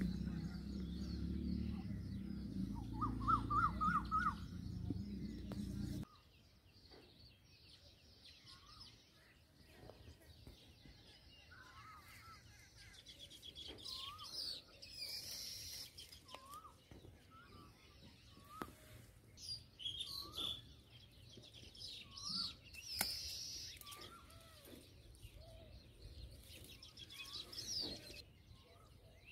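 Small birds chirping, short curling notes repeated every second or two, with higher twittering from other birds among them. A loud low rumble fills the first six seconds and cuts off suddenly.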